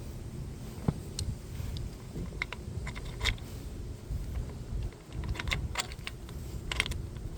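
Irregular light clicks and clinks of small metal parts being handled, bunched in quick runs about three seconds in and again in the second half, over a steady low rumble.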